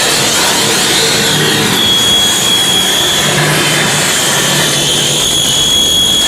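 Harsh noise: a loud, unbroken wall of distorted electronic noise filling every pitch, with a thin wavering feedback tone high above it.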